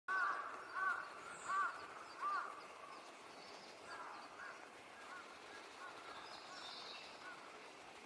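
Wild birds calling: four loud arched calls about three-quarters of a second apart, then fainter repeated calls and a few faint high chirps.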